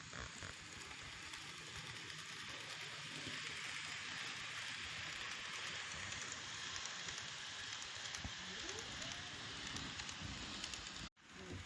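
N gauge model train running on the track: a steady rushing rumble of small wheels on rails and the model's motor, swelling a little as it passes, then briefly dropping out near the end.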